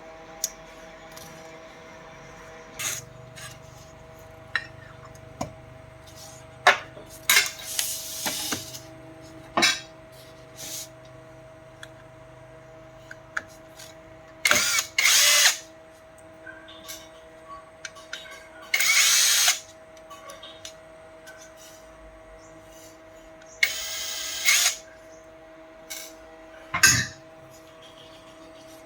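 A small power drill-driver running in four short bursts of about a second each, among scattered clicks and knocks of handling, over a steady hum.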